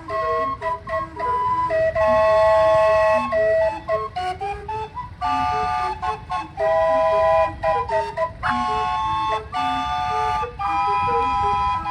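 A tune played on whistle- or flute-toned pipes, in held chords broken by short quick notes, over a low steady rumble.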